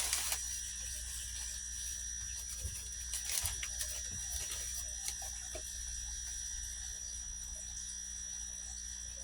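Steady background hum with a thin high whine, and a few faint clicks and rustles about three seconds in.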